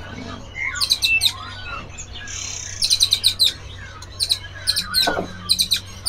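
Caged songbirds chirping in quick clusters of short, very high notes every second or two, over a steady low hum.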